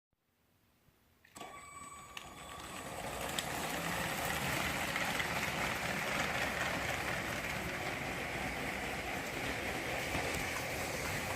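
Lego train powered by two Power Functions train motors running on plastic track: a steady whirring rattle of motors, gears and wheels that grows louder over the first few seconds, then holds level, with a couple of sharp clicks early on.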